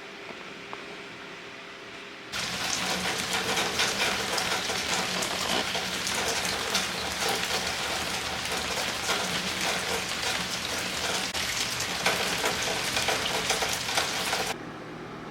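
Rain falling, a dense crackle of many small drops hitting a surface. It starts suddenly about two seconds in and cuts off abruptly near the end.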